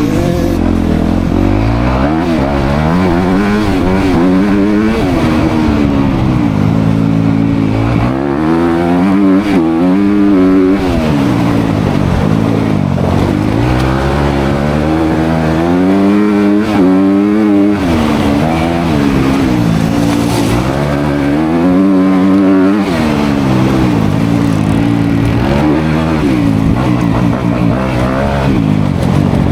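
Dirt bike engine running hard off-road, its pitch rising and falling over and over as the throttle is opened and shut and the rider changes gear.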